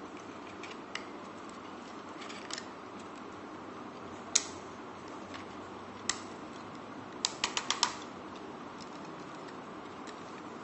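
Hard plastic clicks of a 1:28-scale toy mech's parts and joints being handled: a few separate sharp clicks, then a quick run of about five near the three-quarter mark, over a steady low hiss.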